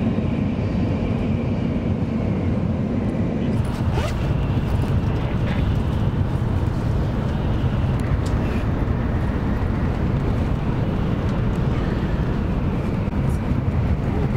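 Steady low rumble and rush of a Shinkansen bullet train running, heard inside the passenger cabin, with a few light clicks.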